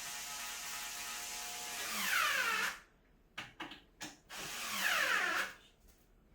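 Power drill driving screws into a cat tower: a steady motor whir, then two short louder runs that fall in pitch as the motor slows and stops, with a few clicks in between.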